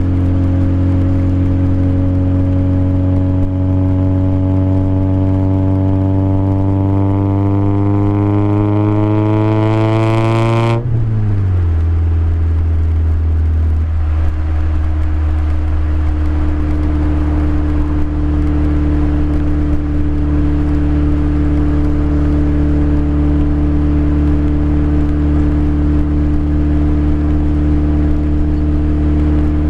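Toyota Corolla 1.8 L 7A-FE four-cylinder running through headers and a Magnaflow exhaust. Engine speed climbs slowly for about eleven seconds, then drops suddenly and holds a steady, lower exhaust drone.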